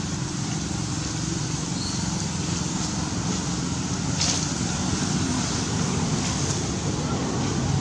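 Steady low rumble of outdoor background noise, with a short click about four seconds in.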